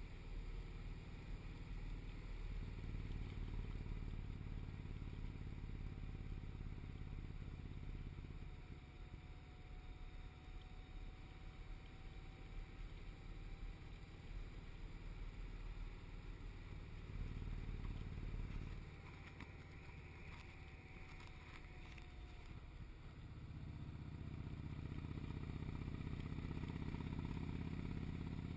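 V-twin cruiser motorcycle engine running on the road, its note rising and falling with the throttle and building again near the end.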